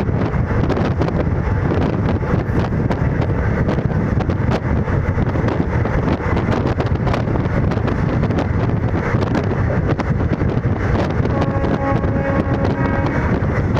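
Indian Railways ICF passenger coach running at about 110 km/h: a loud steady rumble of wheels on track, with rattles, clicks and rushing air. A steady pitched tone sounds for about two seconds near the end.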